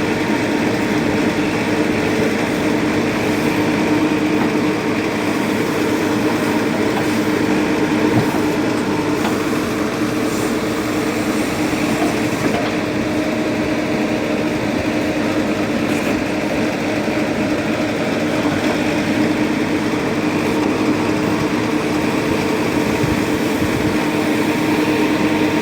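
Diesel engine running steadily at a constant speed, with an even hum that holds throughout.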